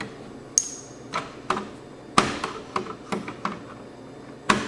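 Irregular clicks and taps from handling screws and small parts while taking apart an AV receiver by hand, about ten over a few seconds. The first, about half a second in, rings briefly with a high tone, and the sharpest comes about two seconds in.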